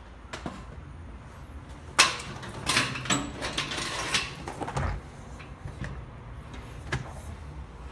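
A three-door refrigerator's door being opened and handled: a sharp knock about two seconds in, a couple of seconds of rattling and rustling, a low thump near five seconds, and a single click later.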